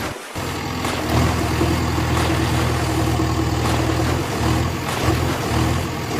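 Vehicle engine idling, a steady low hum that drops out for a moment just after the start.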